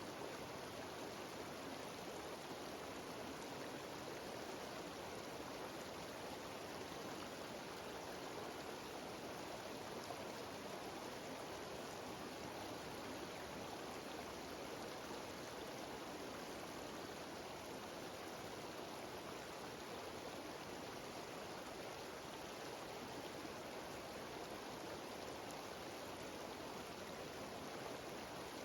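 A mountain stream cascading down a series of small waterfalls, a steady rushing and splashing of water with no breaks.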